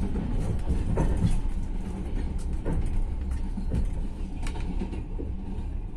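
Passenger train running, heard from inside the carriage: a steady low rumble with scattered clacks and knocks from the running gear.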